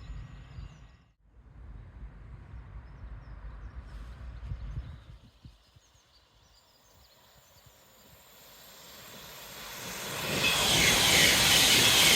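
A train approaching at speed on the main line: a rushing noise that builds from about eight seconds in and is loud near the end, after a low rumble in the first few seconds.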